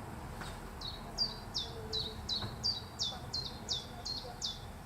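A small songbird singing a quick series of about eleven repeated high notes, each sliding down in pitch.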